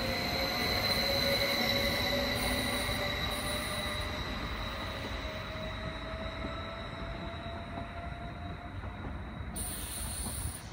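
Electric multiple-unit passenger train pulling away along the platform, its motors whining in a tone that rises slowly as it gathers speed over a steady high-pitched whine and the rumble of the running gear. The sound fades as the train draws off.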